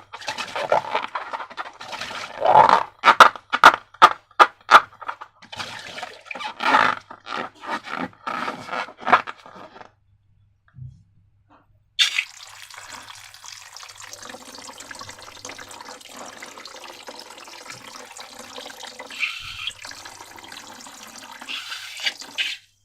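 Wet slime squished and worked by hand, with many quick sticky squelches and pops. After a short pause comes a steady pour of liquid for about ten seconds, which stops shortly before the end.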